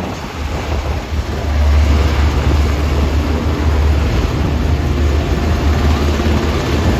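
Military helicopters flying over, a heavy low rotor and engine rumble that grows louder about a second and a half in and then holds.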